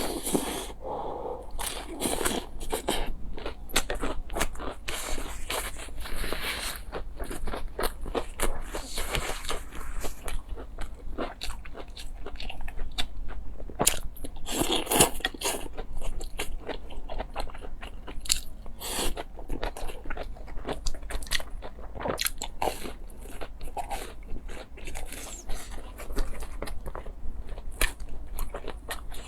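Close-miked eating: a person repeatedly biting and chewing crunchy food, with a dense run of crisp crunches and wet clicks.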